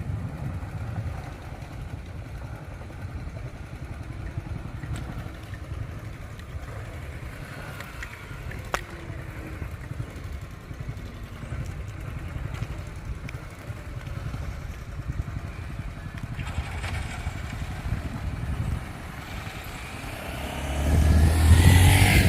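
Steady low rumble of vehicle engines at a ferry landing, with one sharp click about nine seconds in. Near the end a motor vehicle passes close and grows loud.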